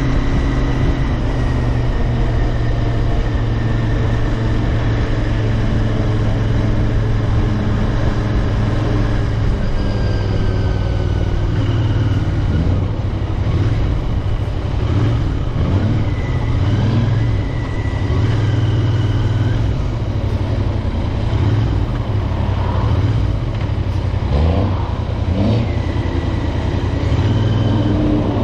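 Royal Enfield Interceptor 650's parallel-twin engine and exhaust running steadily while riding, with wind noise on the microphone; in the second half the engine note rises and falls a few times with changes in revs.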